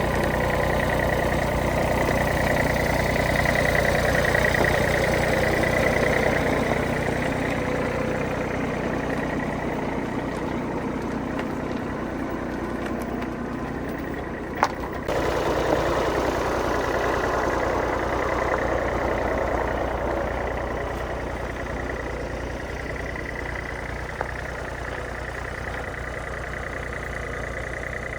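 A vehicle engine running steadily, its sound swelling slightly about four seconds in. A sharp click comes about halfway through, where the sound changes abruptly.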